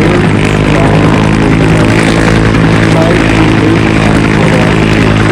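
Firefighting helicopter running overhead, a loud steady drone of rotor and engine.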